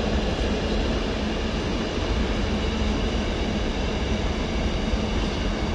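A train's steady low rumble with a constant droning hum, unchanging in level.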